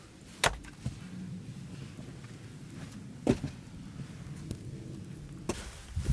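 Sharp knocks, three spaced a few seconds apart and a fourth at the very end, over a low steady rumble.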